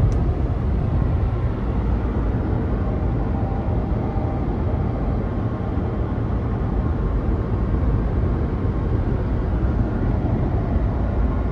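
Steady road and engine noise inside a moving car, a low rumble with no clear changes.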